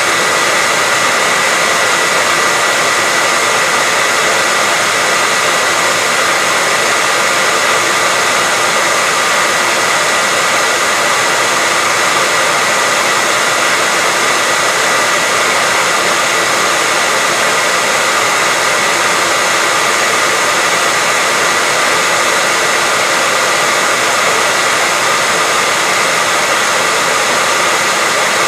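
Hair dryer running steadily as continuous white noise, a dense hiss with a faint high whine held at one pitch.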